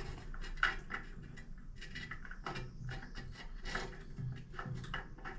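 Nut being turned onto a bathroom faucet's threaded fitting, with irregular small clicks and scrapes as it threads on; it now turns easily after having been cross-threaded.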